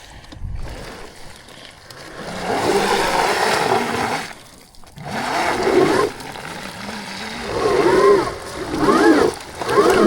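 Electric dirt bike motor whining up and down in pitch in repeated surges as the rear wheel spins in deep mud, with wet mud splattering.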